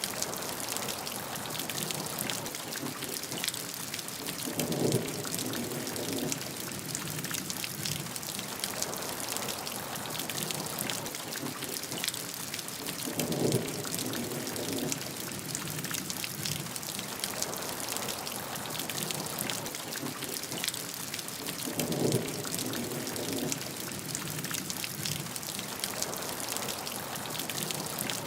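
Steady heavy rain, a dense hiss full of individual drops hitting a surface. Three times, at even intervals of about eight and a half seconds, a brief low, dull sound rises under it.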